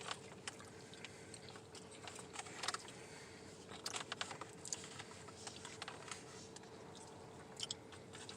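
Quiet eating: faint chewing and scattered light clicks and crinkles, over a faint steady hum.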